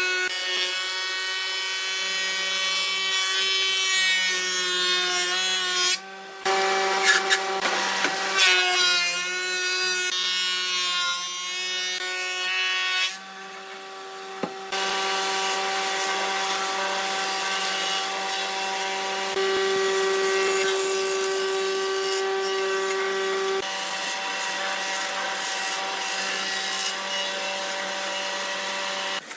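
Electric woodworking power tool running and cutting wood, with a steady high whine that wavers under load. It changes abruptly a few times as the clips cut.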